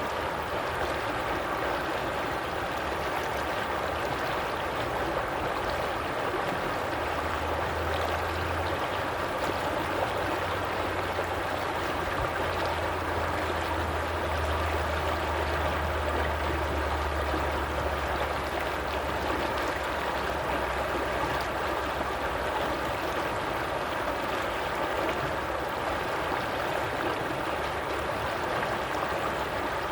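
A stream of running water, a steady gurgling rush. A faint low hum comes in for several seconds near the middle.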